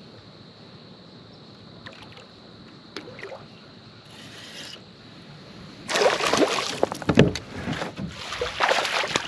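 A hooked bass splashing and thrashing at the surface beside a kayak as it is landed. The first few seconds are quiet apart from a few light clicks; about six seconds in, loud irregular splashing starts and keeps on.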